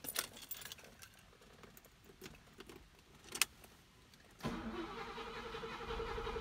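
A few light clicks and one sharp click, then about four and a half seconds in the 1973 Mercedes-Benz 450SLC's 4.5-litre V8 cranks and starts, settling into a steady run. Heard from inside the car's cabin.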